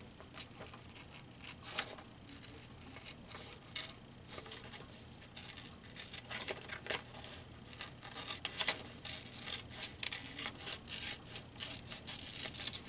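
Collage paper being handled, with irregular short crisp rustles and crinkles.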